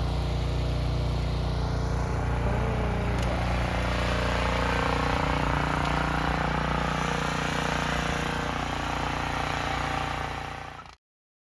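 Small engine of a snow-clearing machine running steadily, fading near the end before the sound cuts off abruptly.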